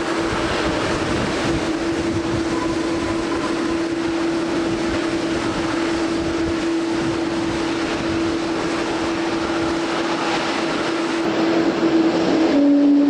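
Boeing 737 MAX 8 landing, its CFM LEAP-1B jet engines running with a steady whine over a dense rush of wind and rain noise. The whine drops slightly in pitch near the end.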